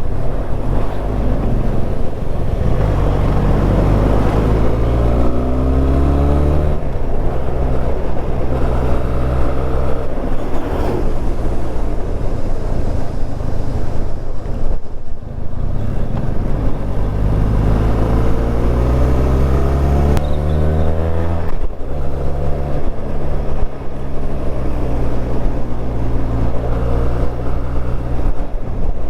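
Benelli TRK 502 motorcycle's 500 cc parallel-twin engine pulling in low gears on a steep, winding climb. The revs rise twice, each time dropping off suddenly as the throttle eases or the gear changes.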